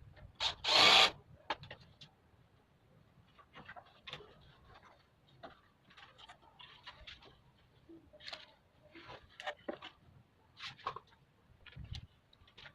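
Parts of a split air conditioner's indoor unit being handled and fitted together: scattered clicks and light knocks, with one loud, brief burst of noise about a second in.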